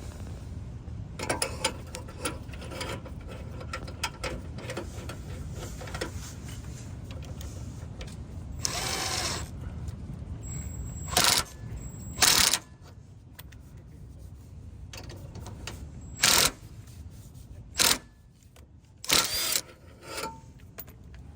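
Impact driver with a 19 mm socket turning the bolt of an exhaust pipe expander in short bursts: a cluster of quick ones in the first few seconds, then about six louder bursts of half a second to a second each, as the expander pushes a dented exhaust tip back out.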